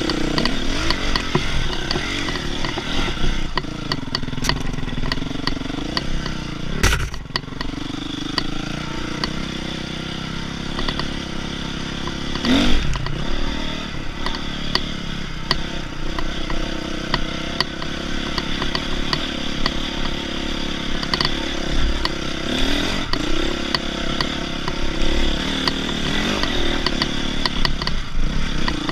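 Dirt bike engine running hard while riding a trail, its pitch rising and falling with the throttle, with clatter and a few sharp knocks from the bike over the rough ground.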